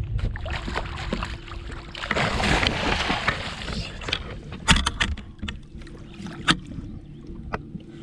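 Water sloshing against a kayak hull with wind buffeting the microphone, a rush of water about two seconds in, and several sharp knocks of gear against the hull.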